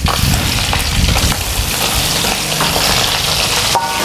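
Small anchovies deep-frying in hot oil in a wok: a loud, steady sizzle as they fry until dry and coloured.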